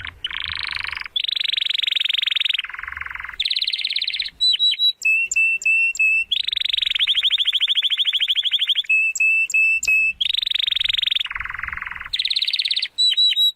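Bird-like chirping: buzzy, rapid trills that alternate with runs of short, clipped, high whistled notes repeated at the same pitch.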